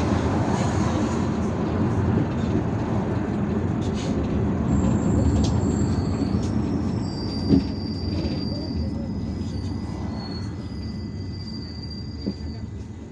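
Ride inside an IVECO Urbanway 18M articulated city bus: steady engine and road rumble that fades as the bus slows, with thin high squealing from about five seconds in and a single knock near the middle.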